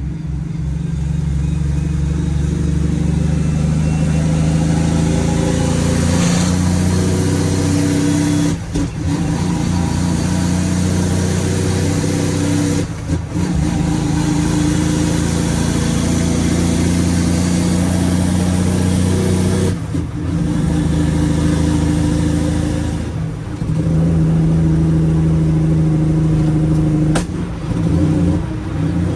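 Straight-piped Cummins ISX inline-six diesel truck engine running loud under load, with five brief breaks in the sound as it shifts through the gears of an 18-speed transmission.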